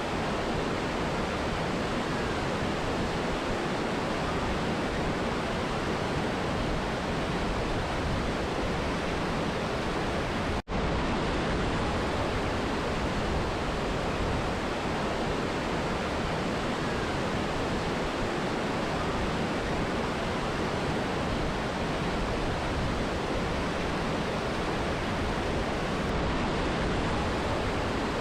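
Steady rushing water of a mountain river and waterfall, an even hiss with no change in level. About ten seconds in it cuts out for a split second, as at an edit or loop join.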